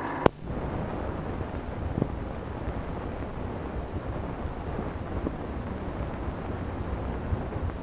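A sharp click just after the start, then a steady low car-engine rumble as the car pulls away, with a lighter knock about two seconds in.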